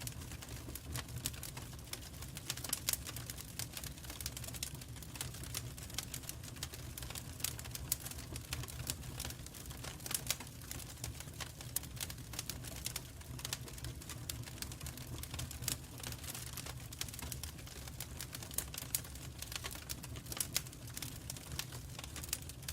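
Wood fire crackling, with irregular sharp snaps and a few louder pops over a steady low rumble.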